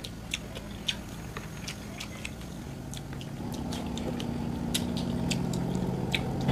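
Close-up chewing and eating by hand, with many small mouth clicks and smacks. From about halfway through, a steady low motor hum rises and grows louder, as of a vehicle approaching.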